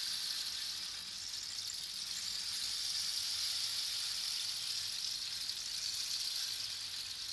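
Rain stick being tipped, its beads or pebbles trickling down inside the tube in a continuous high, rain-like patter that swells and eases slightly.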